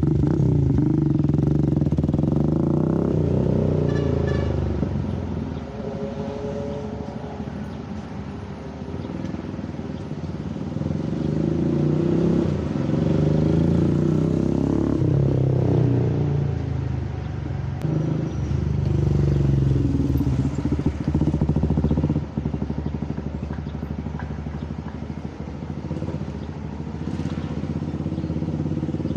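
Benelli Motobi 200 Evo's single-cylinder engine running through an aftermarket exhaust, its revs rising and falling as the bike is ridden.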